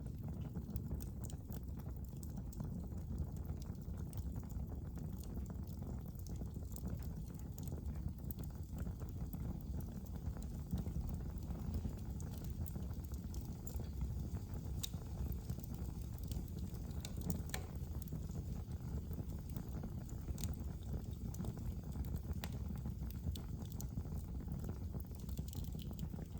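Wood fire burning in a fireplace: a steady low rumble of the flames with scattered crackles and sharp pops throughout, a few louder pops in the middle.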